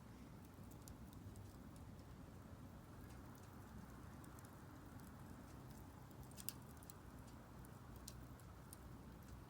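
Faint crackling of split firewood burning in a Solo Stove Campfire fire pit, with scattered small pops over a low steady rumble and one sharper pop about six and a half seconds in.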